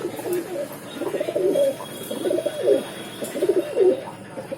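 Domestic pigeons cooing in a loft, low warbling coos repeating about once a second.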